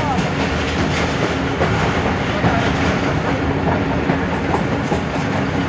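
Running noise of a moving passenger train heard from the open doorway of a coach: a steady rumble of wheels on the rails, with frequent clicks as the wheels pass over the track.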